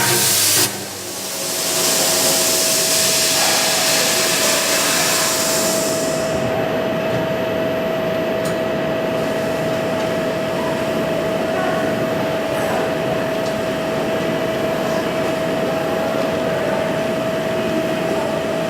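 CNC pipe-cutting machine at work: a loud hiss that stops about six seconds in, over a steady mid-pitched whine and machine noise.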